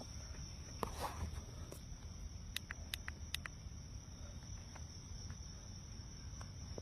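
Cricket singing, a steady high-pitched trill, with a few short sharp clicks about a second in and again around the middle.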